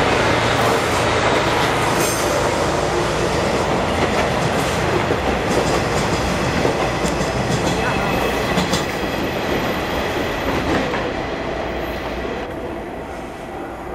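DE10 diesel-hydraulic locomotive hauling three 50-series passenger coaches past at close range, its diesel engine running as it goes by, then the coaches' wheels clattering over the rail joints. The sound fades near the end as the train moves away.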